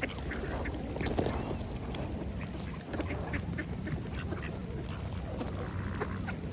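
Mallard ducks quacking while they feed, with many quick wet clicks and splashes from their bills working in the water, over a steady low rumble.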